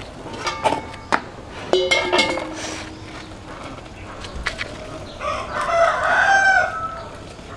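A rooster crowing once, a pitched call about a second and a half long near the end, after several short sharp knocks in the first couple of seconds.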